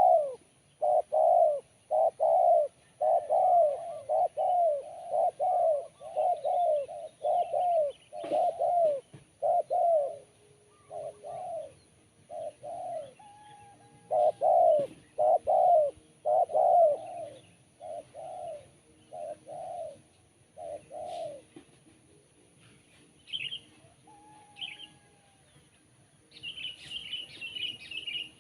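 Spotted dove (tekukur) cooing: a long run of short, evenly spaced coo notes, about two a second, breaking off twice and starting again. A few high chirps from a small bird come in near the end.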